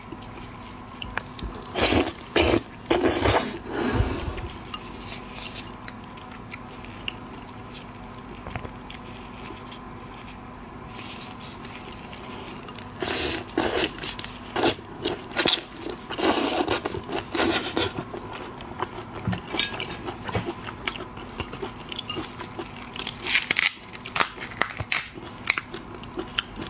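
Close-miked mukbang eating of shellfish: crunching, biting and chewing come in loud clusters, with a quieter stretch in the middle.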